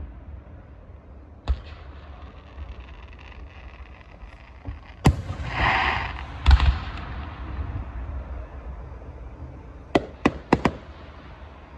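Fireworks going off. A single bang comes about a second and a half in, then a loud bang near five seconds followed by a short rush of noise and two more bangs. A quick run of four sharp cracks comes near the end, over a low steady rumble.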